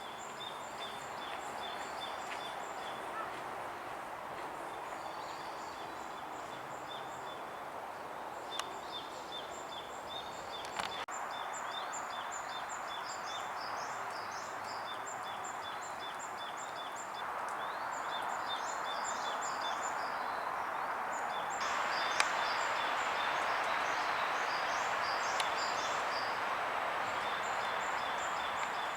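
Outdoor ambience: a steady background hiss, with short high chirps of small birds repeating throughout. It grows somewhat louder in steps, most clearly about two-thirds of the way in.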